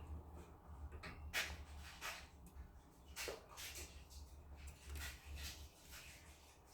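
Budgerigars in a nest box: a handful of short, faint scratchy sounds at irregular intervals, over a low steady hum.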